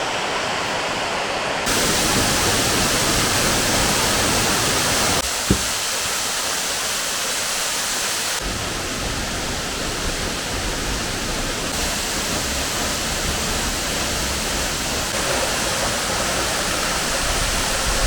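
Rushing water of mountain-valley waterfalls and a stream: a dense, steady rush whose level and tone shift suddenly every few seconds as different stretches of water are cut together. One brief click comes about five and a half seconds in.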